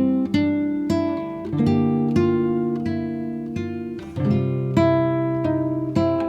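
Background music on an acoustic guitar: plucked notes and chords, each ringing out and fading before the next.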